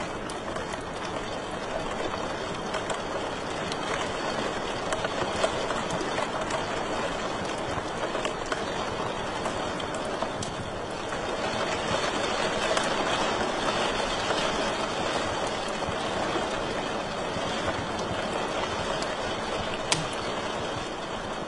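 Wood fire burning in a fireplace: a steady rushing hiss with scattered small crackles and pops, and one sharper pop near the end.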